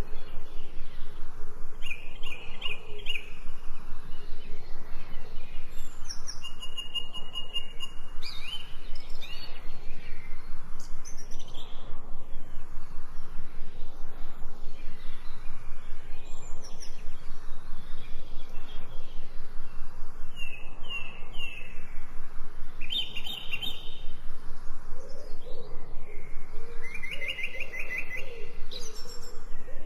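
Several birds chirping, with short repeated calls and quick trills coming one after another over a steady background hiss.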